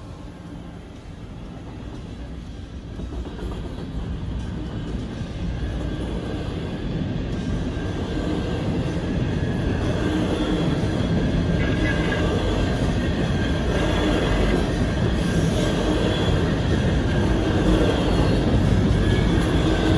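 Double-stack intermodal container cars rolling past, their steel wheels rumbling on the rails with a faint high squeal, growing steadily louder.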